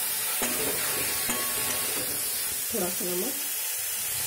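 Onions, tomatoes and cashews sizzling in hot oil in a steel kadhai, stirred with a steel spatula that clicks faintly against the pan.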